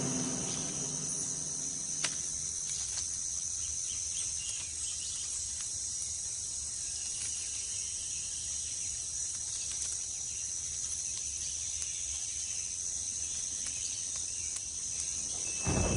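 Steady chorus of insects, a continuous high-pitched trill, with a single sharp click about two seconds in.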